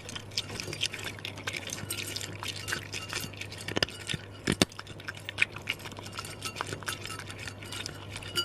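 Cats crunching dry kibble: a dense run of small, irregular crunches and clicks, with a steady low hum underneath.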